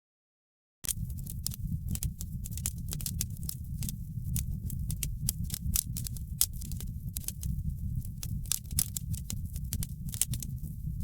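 Wood fire crackling in a fireplace: a steady low rumble of the flames with frequent sharp pops and crackles. The sound cuts out completely for the first second, then comes back.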